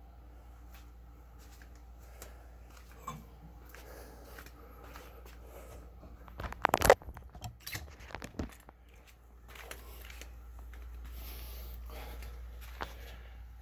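Loaded weight plates and the Rolling Thunder handle being handled, with scattered clicks and rustles and a cluster of sharp knocks about seven seconds in, the loudest of them, followed by a few lighter knocks.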